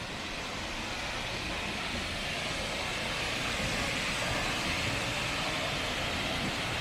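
Steady rushing of a large waterfall, the Genesee River's Middle Falls, growing slightly louder.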